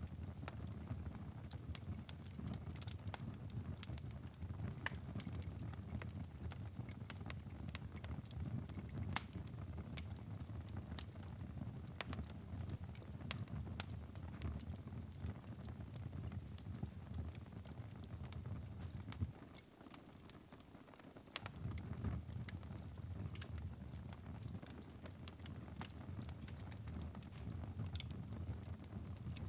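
Fireplace fire crackling, with irregular sharp pops and snaps over a steady low rumble of flames. The rumble briefly fades for a couple of seconds about two-thirds of the way through, while the crackles carry on.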